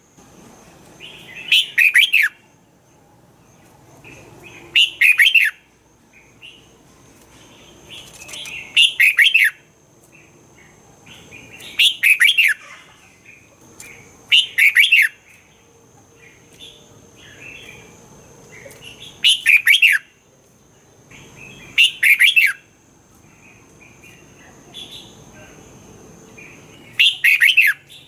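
Red-whiskered bulbul singing: eight short, loud song phrases, one every few seconds, with softer chirps between them.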